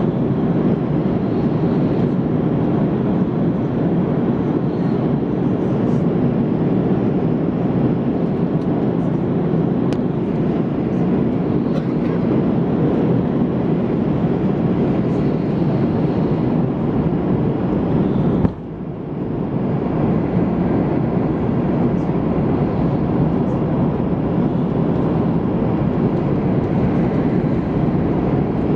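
Airbus A330-200 cabin noise: a steady roar of engines and airflow heard from a passenger seat. The roar drops suddenly about two-thirds of the way through, then builds back over a second or two.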